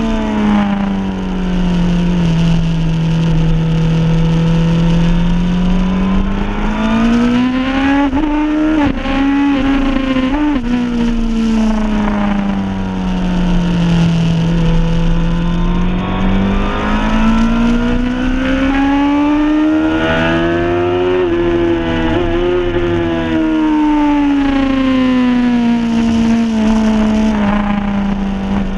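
Suzuki superbike engine heard close from the bike itself, its revs falling and rising in long smooth sweeps as it is ridden through corners, over steady wind noise.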